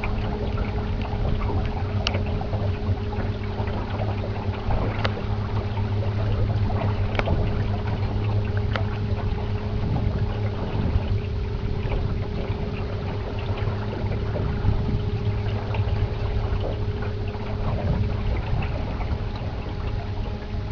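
1974 Evinrude 25 hp two-stroke outboard running at a steady speed, pushing a 14-foot aluminum jon boat, with water rushing past and scattered knocks of the hull on the chop.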